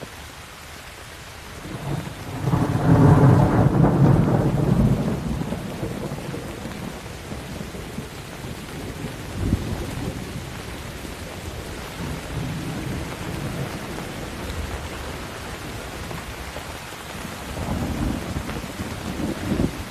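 Steady rain with a loud peal of thunder that swells about two seconds in and rolls away over a few seconds, followed by softer rumbles near the middle and toward the end.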